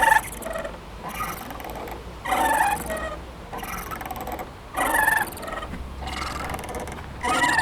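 Playground swing squeaking rhythmically as it swings back and forth, with a louder squeak about every two and a half seconds and fainter ones in between.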